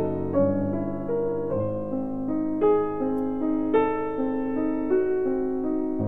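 Background piano music: a slow melody of held notes, a new note or chord about every half second to a second.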